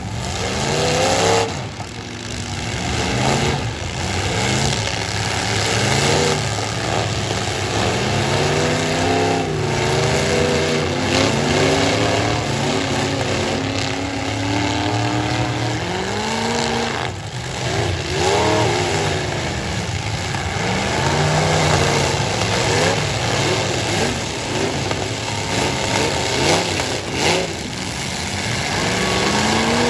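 Several demolition derby truck engines revving hard at once, their pitch repeatedly rising and falling as the trucks accelerate, back up and ram each other.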